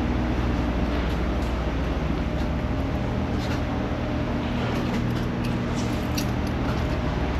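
A steady low mechanical drone with an even hum, with a few faint light ticks over it.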